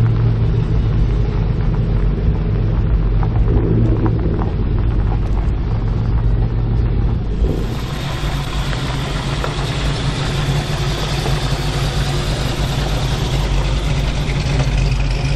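Car engine running with a steady low rumble. About halfway through the sound changes to a brighter, noisier engine sound over the low rumble.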